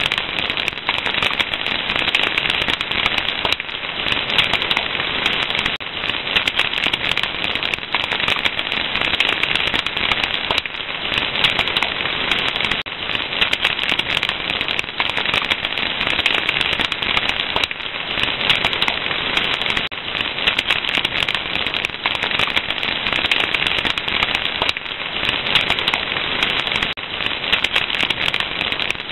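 Fire crackling: a dense, continuous run of small snaps and pops over a steady hiss.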